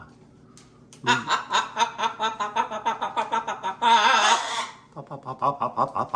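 Parrot cackling in a rapid string of short laugh-like calls, then a harsh squawk about four seconds in, then more quick cackling.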